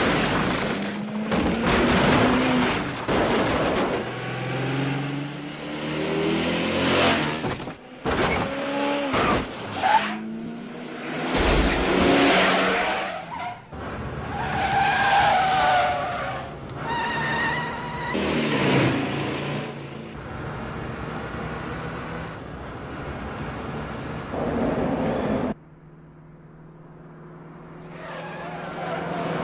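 Film chase soundtrack: car and motorcycle engines revving up and down and passing, with tyres squealing and skidding. The sound changes abruptly several times at the cuts, and drops sharply for a few seconds near the end before the engines build again.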